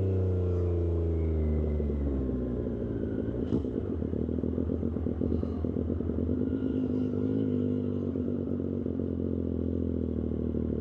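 Triumph Street Triple 765RS's inline three-cylinder engine through an aftermarket SC-Project exhaust, its revs falling as the bike slows over the first two seconds. It then runs at low revs with a rapid, rough pulsing, and a single click about three and a half seconds in.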